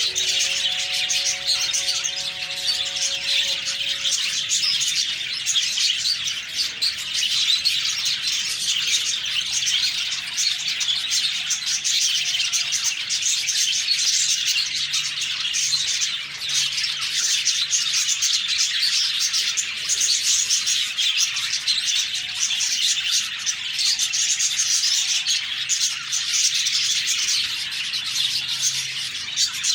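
A flock of budgerigars chirping and chattering, a dense, continuous warble of high chirps with no breaks.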